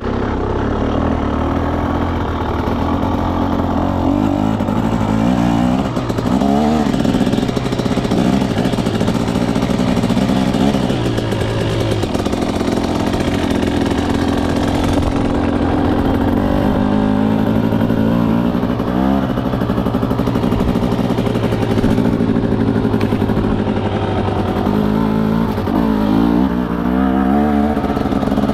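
2024 KTM 300 SX two-stroke single-cylinder dirt bike engine running under way, its note rising and falling again and again as the throttle opens and closes.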